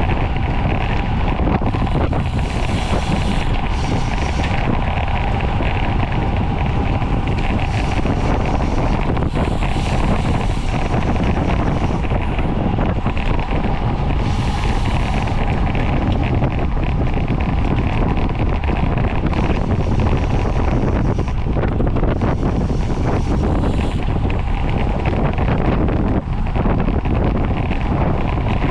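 Steady, loud wind noise buffeting the microphone of a racing bicycle riding at speed.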